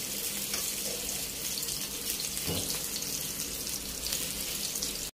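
Chicken kababs shallow-frying in oil in a grill pan: a steady sizzle with small crackles, and a soft knock about two and a half seconds in as they are turned. The sizzle cuts off abruptly at the very end.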